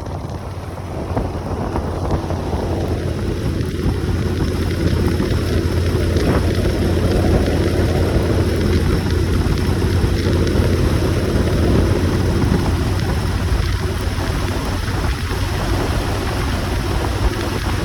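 Motorcycle engine running at a steady speed with wind rushing over the microphone, getting louder about two seconds in.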